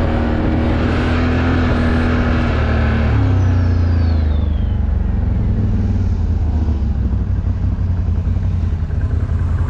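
Can-Am off-road vehicle's engine running under load in four-wheel-drive low range. Its note changes about three seconds in, with a brief falling whistle, then settles lower and quieter in the upper range as the throttle eases.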